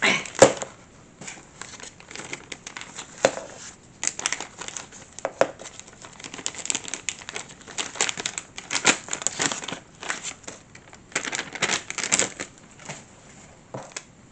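Plastic packaging crinkling and rustling as a model-kit parts packet is opened and handled, with irregular sharp crackles and small clicks.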